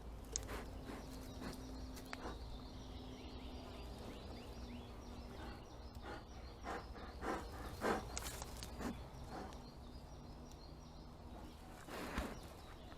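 A young bear breathing and sniffing close to a trail camera, with scattered short huffs and rustles that cluster from about halfway through. A faint steady buzz runs through the first few seconds.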